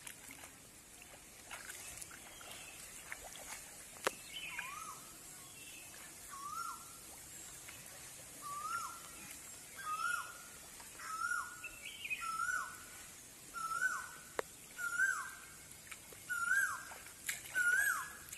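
A bird calling over and over, a short note that drops quickly in pitch, about once a second. The calls start a few seconds in and grow steadily louder toward the end.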